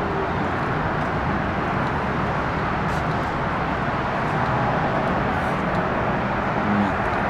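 Steady rushing noise of the kind made by road traffic, even throughout with no distinct events.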